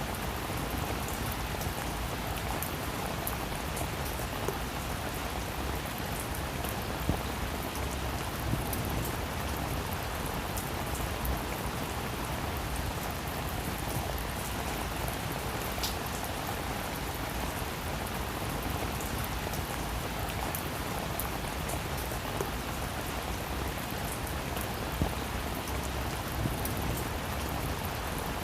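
Heavy rain falling steadily, with a few sharper drop impacts standing out now and then.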